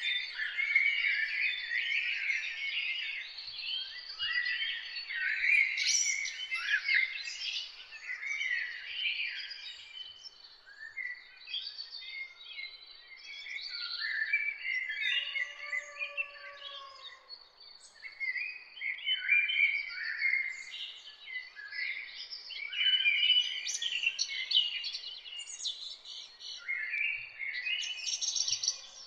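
Chorus of songbirds, many overlapping high chirps and trills, thinning out around the middle. About halfway through, a lower, drawn-out call rises and falls for about two seconds under the chirping.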